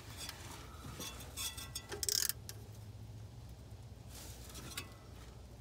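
Socket and ratchet on the crankshaft bolt of an engine that barely turns by hand, making short metallic clicking and scraping bursts about 1.5 seconds in and again about 4 seconds in, over a low steady hum.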